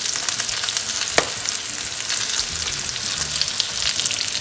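Shrimp cakes frying in hot olive oil and butter in a pan, a steady sizzle with fine crackling. There is a single sharp click about a second in.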